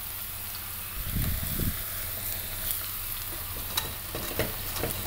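Onions and peppers sizzling in olive oil in a pot, with a few soft knocks as eggplant slices are laid in on top, the heaviest about a second in.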